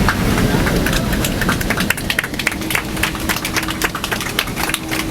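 Boeing 767-300 cabin as the airliner slows on the runway after a hard landing: the low rumble of the rollout dies down while passengers break into scattered clapping.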